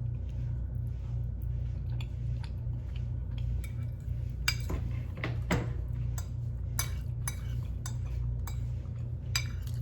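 Metal cutlery clinking against a plate or bowl of food: faint scattered taps at first, then sharper, more frequent clinks from about halfway, over a steady low hum.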